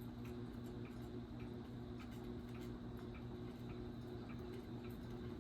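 SMC A52 ceiling fan running on its standard high speed, with a steady electrical hum and a light regular tick about twice a second.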